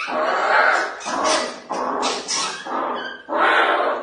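A dog barking repeatedly, a run of about six barks each roughly half a second long.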